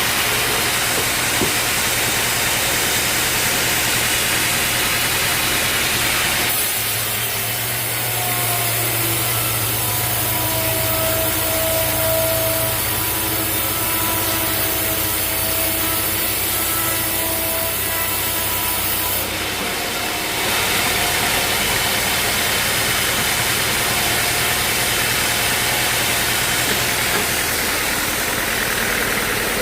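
Bandsaw sawmill running and sawing through a teak log: a steady engine and blade-cutting noise. About seven seconds in the sound shifts to a deeper hum with a few held tones, and it goes back to the earlier noise about twenty seconds in.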